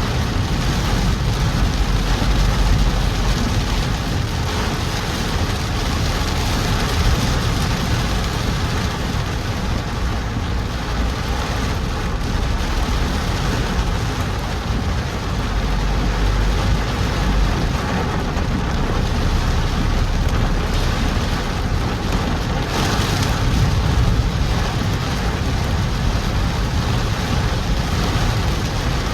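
Heavy monsoon rain pouring steadily on a moving car, an even hiss of rain over a low rumble of road and engine.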